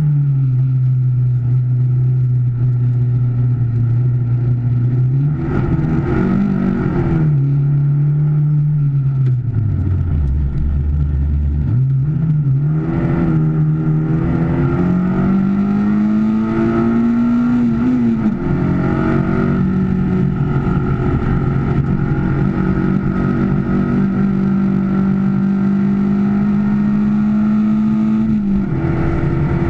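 Car engine heard from inside the cabin while being driven on track. Its pitch sinks low around ten seconds in as the car slows, then climbs steadily under acceleration. It drops abruptly about eighteen seconds in with an upshift, holds steady, and drops again with another upshift near the end.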